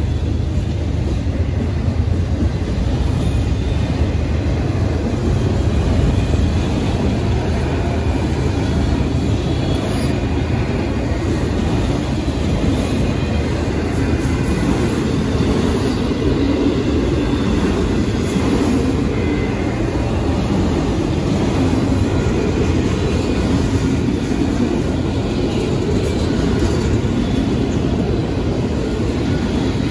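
Freight train of autorack auto-carrier cars rolling past, a steady, loud noise of steel wheels on rail.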